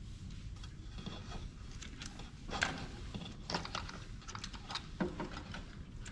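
Scattered small clicks, taps and short scrapes of hands and tools working on a thermal printer's plastic and metal parts during disassembly, with a sharper click about two and a half seconds in and another near five seconds.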